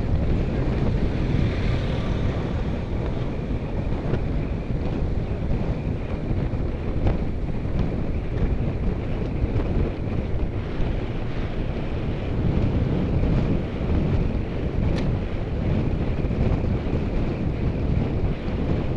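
Wind buffeting the microphone of a camera carried on a moving road bike, a steady low rumble at riding speed.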